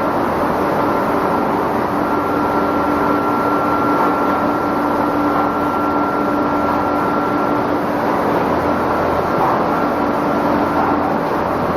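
Machinery of an egg boiling and peeling production line running steadily: a dense, even mechanical noise with a low hum and a higher whine, the whine fading out about eight seconds in.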